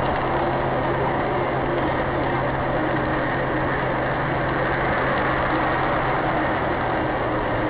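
Steady vehicle engine and road noise with a constant low hum, unchanging throughout and with no impact.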